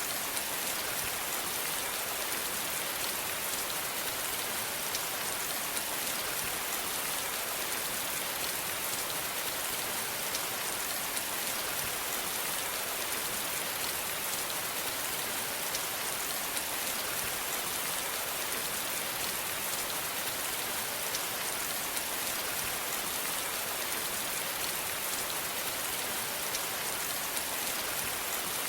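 Steady rainfall, a dense even hiss of drops with fine individual drop ticks throughout.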